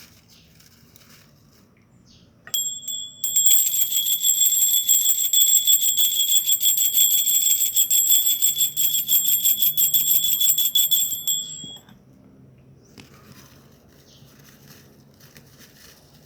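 A small high-pitched metal hand bell rung rapidly and without a break for about nine seconds. It starts about two and a half seconds in and stops suddenly.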